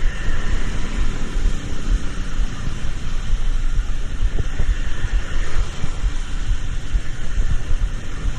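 Steady vehicle and traffic noise: a heavy low rumble with irregular buffeting, as of wind on the microphone, under an even hiss.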